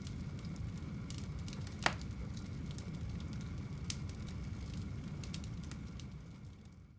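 Fire burning in a home fireplace: a steady low rush with scattered crackles and one sharp pop about two seconds in. The sound fades out at the very end.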